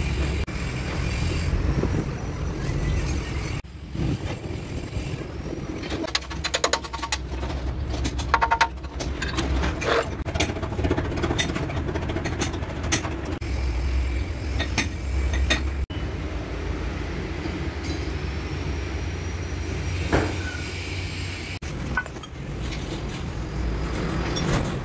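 Sany concrete mixer truck's diesel engine running with a steady low rumble, with a run of clinks and knocks about six to ten seconds in.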